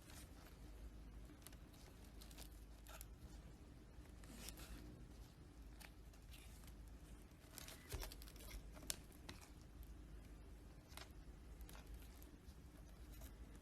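Faint workbench handling noises: scattered light clicks and short scratching sounds, with a sharper knock about eight seconds in and a click a second later.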